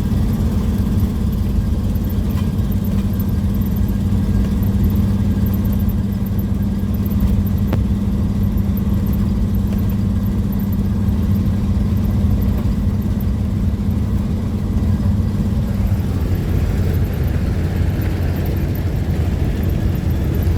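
Road and engine noise inside a moving car's cabin: a steady low drone. About three-quarters of the way through the drone eases and a higher hiss rises for a few seconds, then the drone returns.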